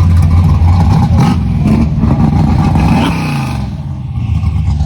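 Loud old-school car engine running with a deep, heavy exhaust rumble. About three seconds in the revs fall and the sound briefly drops before building again.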